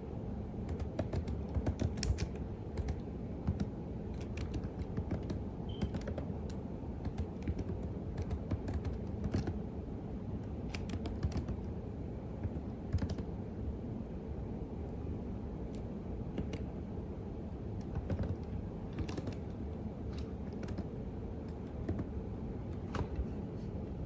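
Typing on a computer keyboard: an uneven, continuous patter of key clicks, some keystrokes louder than others, over a steady low background hum.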